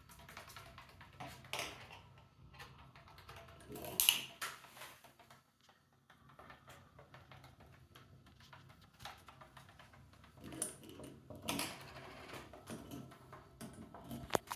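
Irregular light taps and clicks, with a few louder clatters, from a cockatiel playing with a small toy, likely rings, pecking and knocking it about.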